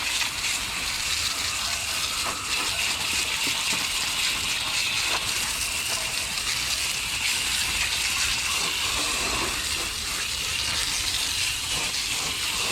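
A steady spray of water rinsing cleaner and dirt off a car wheel, an even hiss that runs on without a break.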